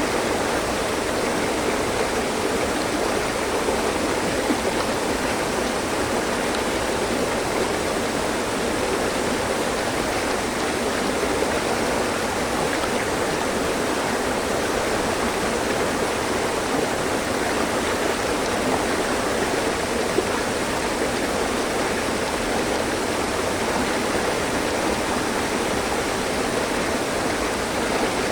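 Mountain stream flowing over rocks: a steady, even rush of water with no change.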